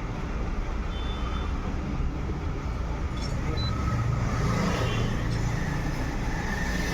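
Maruti Suzuki Eeco's four-cylinder petrol engine running at idle, a steady low rumble that swells slightly about four seconds in. The engine is misfiring and shaking, with a manifold absolute pressure (MAP) sensor fault stored.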